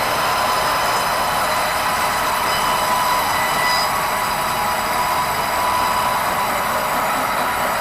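Sawmill band saw cutting red meranti timber: a steady, loud, high-pitched whine with a rushing hiss, without let-up.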